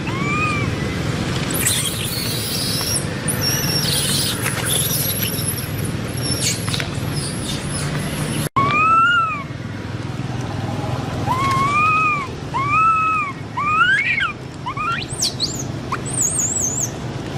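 Baby macaque crying: repeated short calls that each rise and fall in pitch, mixed with shrill squeals and rising screeches, the distress calls of a young monkey being weaned by its mother.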